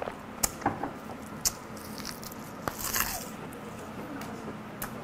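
Close-up eating sounds: a few sharp clicks and smacks, then a short crisp crunch about three seconds in, as a wrap of dried laver (gim) around raw whiteleg shrimp and sea urchin roe is bitten and chewed.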